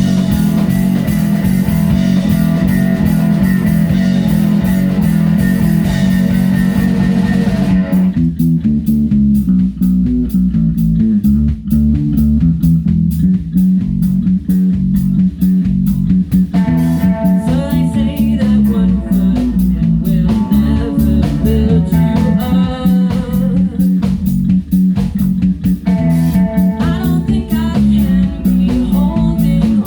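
Rock band playing with electric guitar, bass and drums. It opens on held chords over a cymbal wash, and about eight seconds in the drums drop into a steady beat under a guitar riff.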